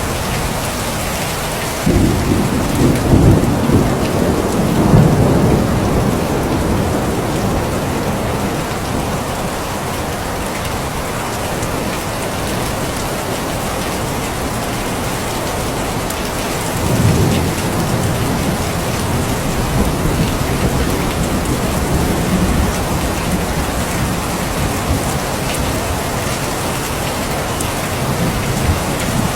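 Steady heavy rain with rolling thunder: a low rumble builds about two seconds in and lasts several seconds, and a second, weaker rumble comes about seventeen seconds in.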